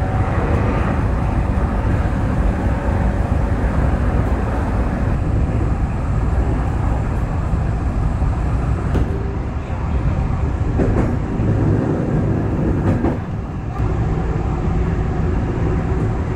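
Electric commuter train running, heard from inside at the front: a steady rumble of wheels on rail and motor hum, with a few sharp clicks in the second half as the wheels pass over rail joints or points.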